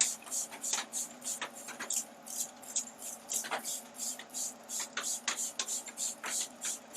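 Trigger spray bottle spritzing repeatedly, a fast run of short hissing sprays about three a second, with the odd click of the trigger.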